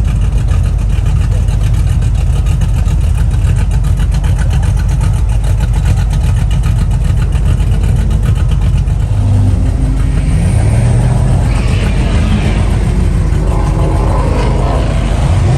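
Muscle-car engines running loud with a deep, fast-pulsing exhaust rumble, revving from about nine seconds in, with voices mixed in.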